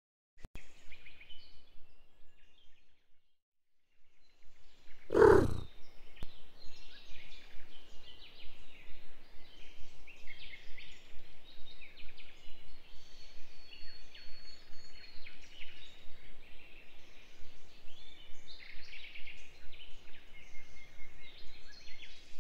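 Many birds chirping and chattering at once, a dense run of short high calls. About five seconds in there is one loud thump.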